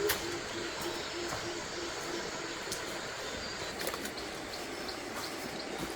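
A bird's low, quick series of hoots, about three or four notes a second, fading out about two seconds in, over outdoor ambience with scattered faint clicks.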